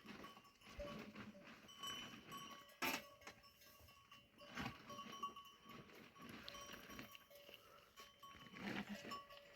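A faint herd of goats and sheep with bells on the animals ringing on and off at a few steady pitches, and one sharp knock about three seconds in.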